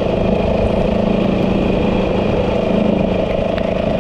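Yamaha 450 dirt bike's single-cylinder four-stroke engine running at a steady, even pitch.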